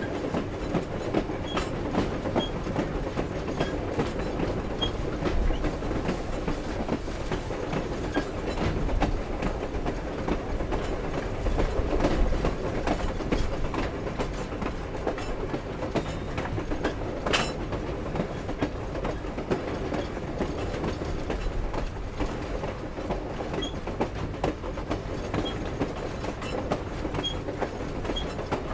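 Steam-hauled Grand Canyon Railway train rolling along: steady running noise of the wheels on the rails with scattered clicks and clanks from the cars, and one sharp clank about 17 seconds in.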